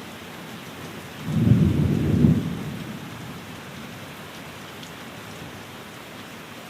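Steady rain on a window, with a short roll of thunder about a second in that swells twice and fades away within about two seconds.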